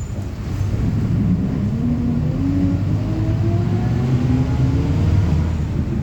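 Mercedes-Benz OF-1721 city bus diesel engine pulling away under load. Its pitch rises for a couple of seconds, drops back and climbs again, as through an upshift.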